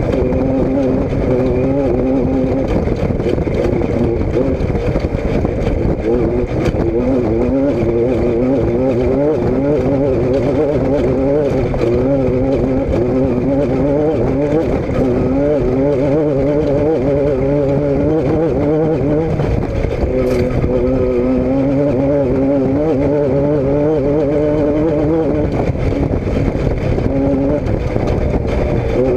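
A motor vehicle engine running continuously, its pitch wavering slightly up and down.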